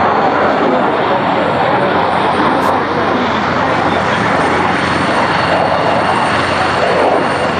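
Eurofighter Typhoon's twin EJ200 turbofan engines, a loud, steady jet noise as the fighter flies its display.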